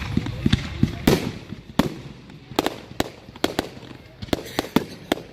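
Fireworks going off: a rapid, irregular series of sharp bangs and cracks, well over a dozen in about five seconds, some with a short echo after them.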